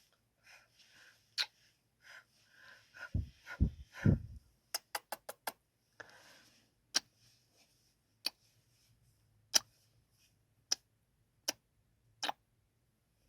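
ASMR kissing sounds close to the microphone: short, sharp lip smacks, a quick run of about five around five seconds in, then single kisses every second or so. A few low thumps sound just before the quick run.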